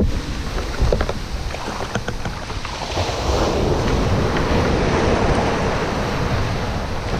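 Sea surf breaking and washing on a beach, with wind buffeting the microphone; the wash swells about halfway through.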